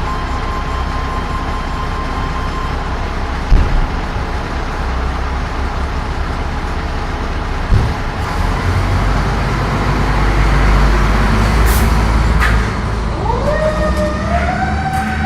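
Fire engine's engine running with a heavy low rumble, two thumps in the first half and a louder stretch around the middle, two short high hisses, then its siren winding up and rising in pitch about 13 seconds in.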